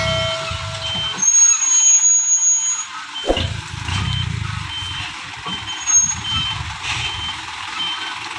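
Loaded dump truck's diesel engine running with its reversing alarm beeping at regular intervals, a little more than once a second. A thin high squeal sounds for a second or so about a second in.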